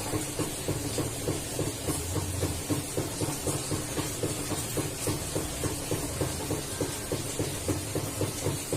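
Puter dove (collared dove) cooing, over a steady rapid pulsing of about five beats a second.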